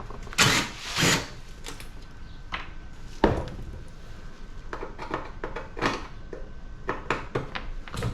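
Hand tools working loose parts on a scrapped air-conditioning unit: irregular scrapes, knocks and clicks. Two louder scrapes come within the first second or so, and a sharp knock comes about three seconds in.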